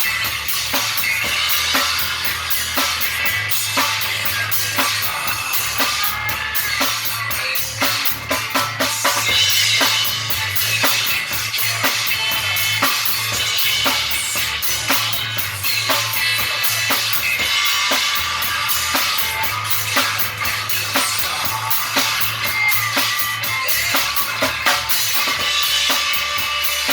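Rock and roll band playing an instrumental passage, a drum kit keeping a steady beat under pitched instruments.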